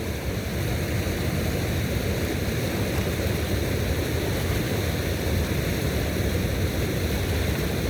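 Steady rushing noise of flowing water, even throughout with no distinct events.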